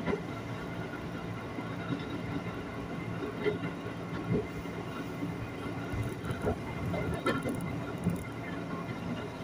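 Steady running noise inside an ex-JR 205 series electric commuter train car at speed: a low rumble and hum, with scattered knocks and rattles from the wheels and the car body.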